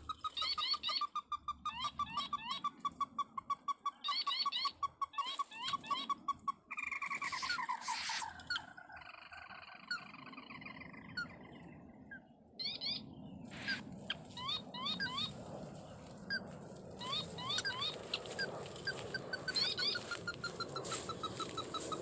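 A crake (burung tikusan) calling in fast runs of short repeated notes, about eight a second. The runs are broken by a stretch of hiss and clicks in the middle, and the last run sinks slightly in pitch near the end.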